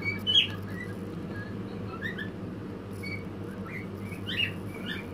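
A small bird chirping repeatedly in short, high notes, over a steady low hum.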